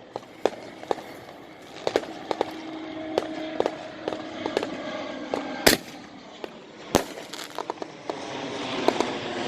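Aerial fireworks going off: a scatter of small crackling pops throughout, with two loud bangs about six and seven seconds in.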